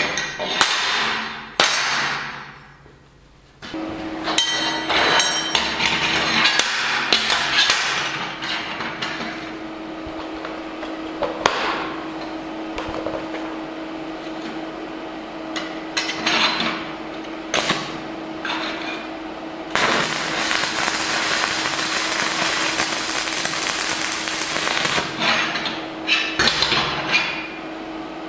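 Hammer blows and clanks on steel parts, a series of sharp knocks, over a steady hum from about four seconds in. A stretch of continuous hissing noise from around the two-thirds mark.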